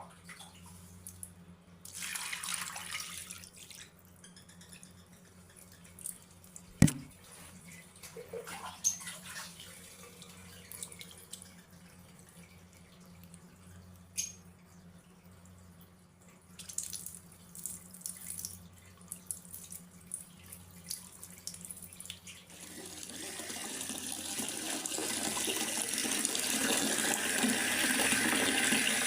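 Water dripping and splashing in scattered drops, with one sharp click about seven seconds in, over a steady low hum; from about 22 seconds a steady rush of running water or heavier rain builds up and stays.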